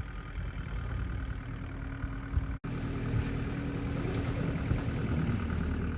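Engine of a snow-clearing machine running steadily, with the sound cutting out for an instant about two and a half seconds in.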